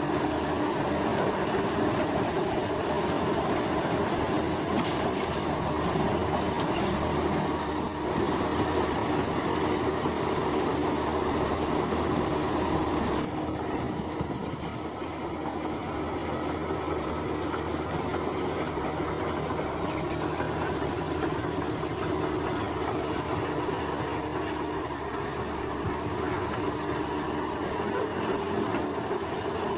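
Heavy crawler machinery, a bulldozer's diesel engine with its steel tracks clanking, running steadily and easing off a little partway through. Insects chirr throughout.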